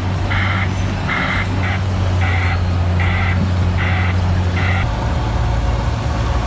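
A heavy machine's diesel engine running steadily, with its back-up alarm beeping about once every 0.8 s while it reverses. The beeping stops about five seconds in and the engine note changes.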